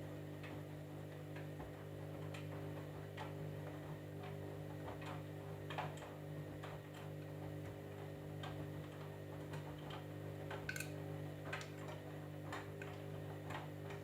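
Candy washing machine running mid-cycle: a steady low electrical hum with irregular light ticks and clicks, about one or two a second.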